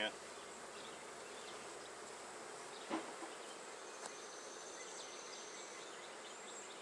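Honey bees humming steadily around an open hive, with a soft knock about three seconds in and a fainter tick a second later.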